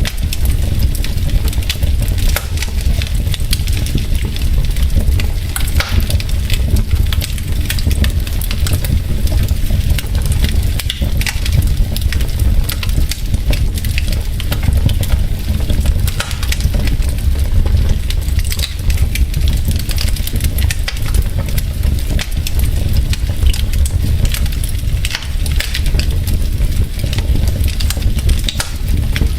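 Wood fire in a fireplace, logs crackling with dense, irregular pops and snaps over a steady low rumble.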